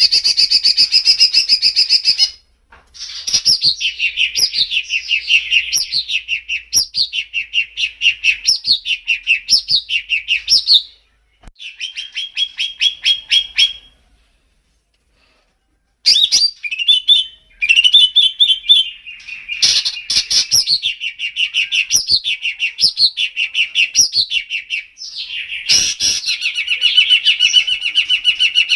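Songbird singing in long phrases of fast, repeated high chirps and downward-sweeping whistled notes, with a pause of about two seconds midway.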